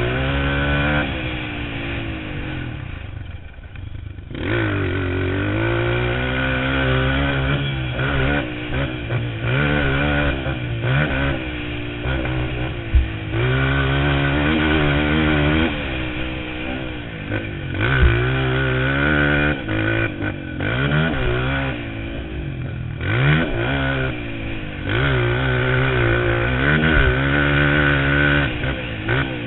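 Motocross dirt bike engine revving hard and repeatedly. It climbs in pitch, cuts off, and climbs again every second or two as the throttle is opened and shut through the gears. A couple of sharp knocks come about 13 and 18 seconds in.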